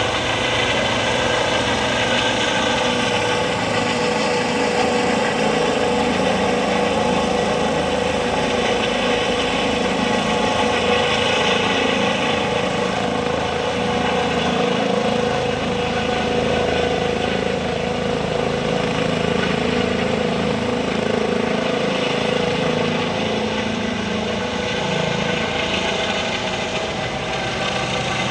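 Helicopter engine and rotor running steadily, a constant mechanical drone with a steady whine over it.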